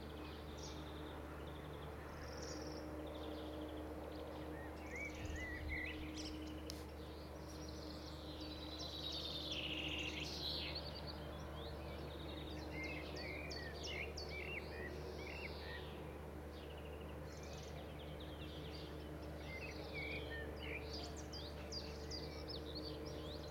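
Several birds singing and calling in the background, many short chirps and trills overlapping, over a steady low hum.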